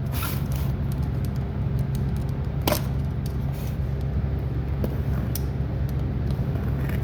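Packaging being handled during an unboxing, with a few sharp clicks, the clearest about two and a half seconds in, over a steady low hum.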